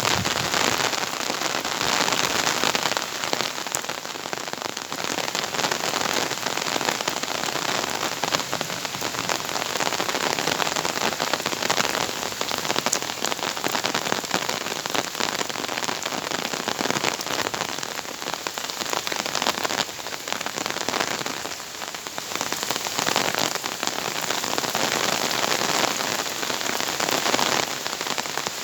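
Heavy rain pouring down in a dense, steady hiss that swells and eases every few seconds.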